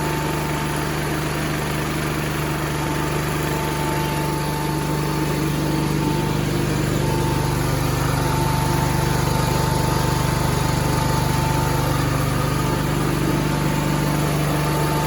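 Small Kohler engine on an Allis-Chalmers tractor running steadily, on its first run after a head gasket replacement.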